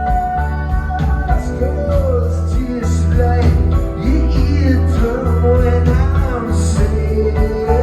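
Live rock band performing: guitar and drums keep a steady beat under a held high instrument tone, and a lead vocal wavers through the middle of the passage.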